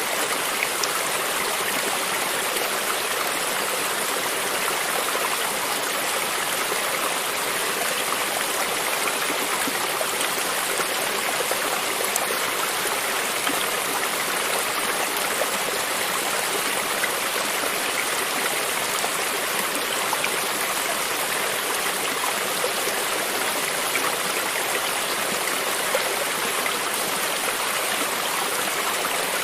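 A stream of running water flowing and babbling steadily, with small splashes and drips scattered through it.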